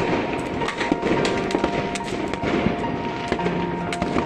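Many fireworks going off at once: a dense, irregular run of bangs and crackles.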